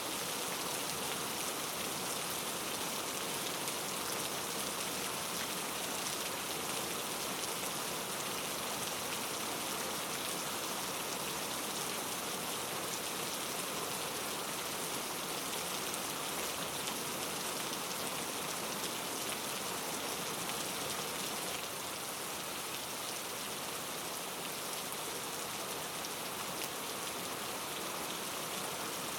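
Steady rain falling, an even hiss of drops with no thunder, easing very slightly about twenty-two seconds in.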